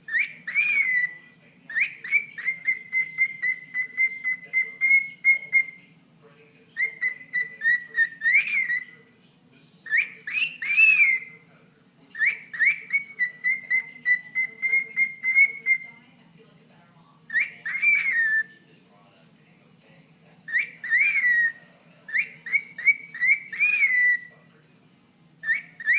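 Cockatiel chattering and whistling in repeated bouts of one to a few seconds: a fast pulsing chatter held near one pitch, with short whistled swoops that rise and fall.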